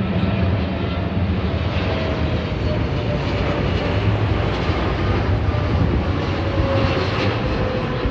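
Jet engines of an airliner on landing approach, a loud steady rush and rumble with a thin whine that slowly falls in pitch as it passes.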